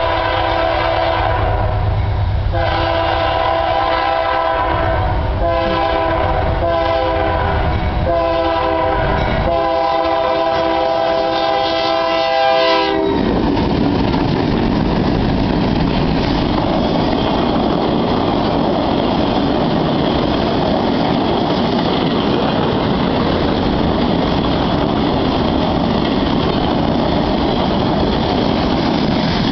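Union Pacific GE C40-8W (Dash 8-40CW) locomotives blowing their air horn in several blasts for a grade crossing. The last long blast cuts off about 13 seconds in. The locomotives then pass close by and the empty rail-train flatcars roll past with a steady rumble and wheel clatter on the rails.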